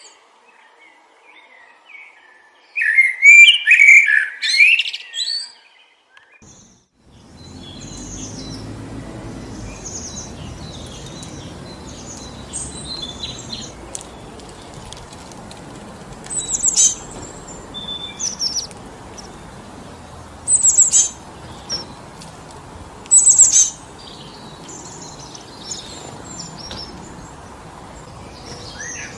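Songbirds singing and chirping in woodland, the loudest song a few seconds in; about seven seconds in a steady rush of wind through the trees comes up beneath the birds, with sharp high chirps breaking through it several times.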